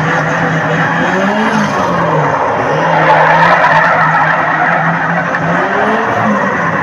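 Motorcycle engine held at high revs, its pitch dipping and rising a few times, over a loud steady rush of noise.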